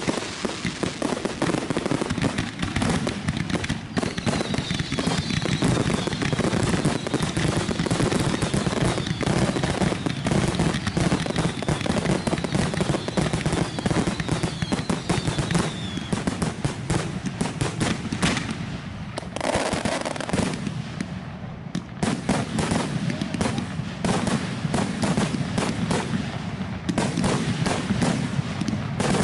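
Fireworks finale: a rapid, unbroken barrage of bangs and crackling, with faint falling whistles through the first half and a brief lull about two-thirds of the way in before the barrage resumes.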